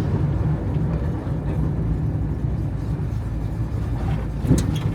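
1979 Camaro Z28's V8 running at a low, steady idle as the car creeps along. There is a brief knock about four and a half seconds in.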